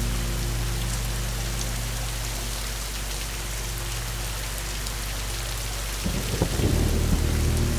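Steady heavy rain with thunder rumbling low underneath; about six seconds in a louder, crackling peal of thunder rolls in.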